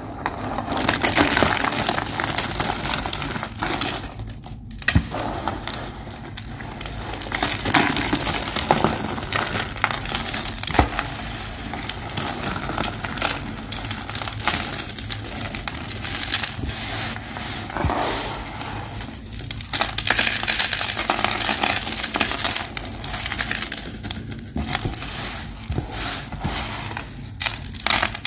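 White soap being crushed: dense, crisp crunching and crackling in long waves, with a few brief breaks.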